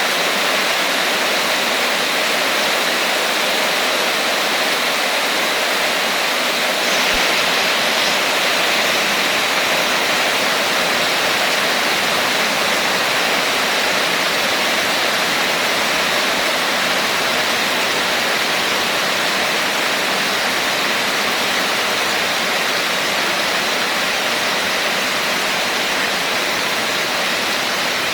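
Steady, heavy rain: a dense, even hiss without separate drops or thunder.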